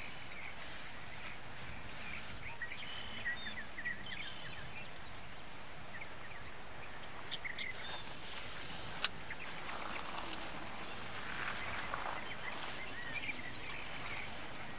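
Scattered short bird chirps over a steady background hiss, with a single sharp click about nine seconds in.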